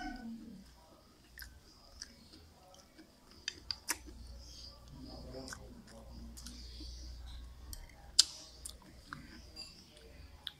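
Close-miked chewing of a mouthful of pancit noodles and bread, with wet mouth sounds, following the end of a noodle slurp at the start. Sharp clicks come in a quick cluster about four seconds in and once, louder, about eight seconds in.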